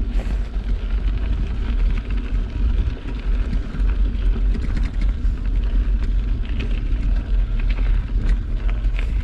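Wind buffeting the camera's microphone: a loud, uneven rumble that rises and falls.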